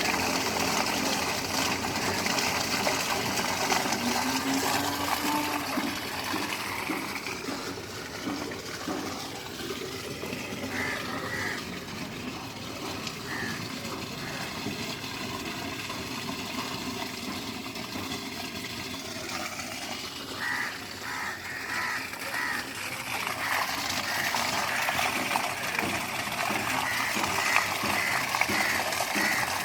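Water rushing through a rain drain being unclogged, a steady noisy flow that eases in the middle and picks up again toward the end.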